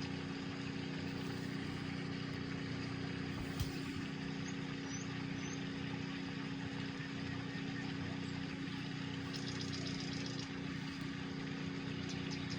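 Steady low machine hum, like an electric fan or appliance running, with a single light click about three and a half seconds in and faint rapid ticking near the end.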